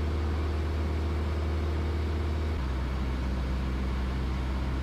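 Cessna 172S Skyhawk's four-cylinder Lycoming piston engine and propeller droning steadily in the cabin in flight. About halfway through, the engine note steps down slightly in pitch and holds there.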